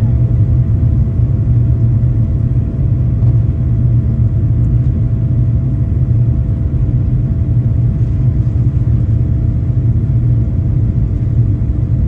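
Steady low rumble of a Boeing 737-800 with its CFM56-7B jet engines running, heard from inside the cabin, with faint steady tones above it and no change in level.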